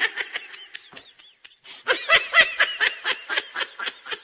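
High-pitched laughter in quick repeated pulses, in two bouts, with the second starting about two seconds in.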